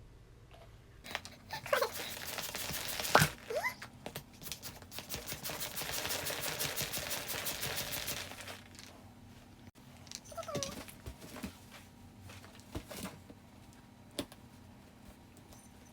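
Hands working with balloons and plastic balloon-stand parts: scattered clicks and taps, a few short rubbery squeaks that slide up or down in pitch, and a steady rustling hiss lasting about four seconds in the middle.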